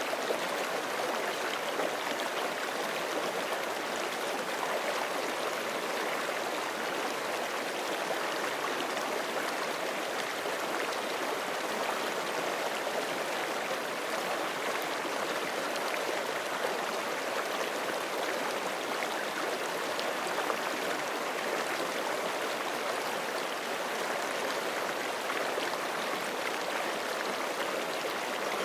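Forest creek flowing over rocks: a steady, unbroken rush of running water with light gurgling.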